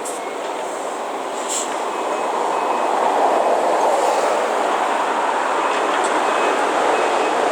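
Heavy construction machinery working: a steady rushing, rumbling noise that grows louder about two seconds in and then holds, with a few light clicks.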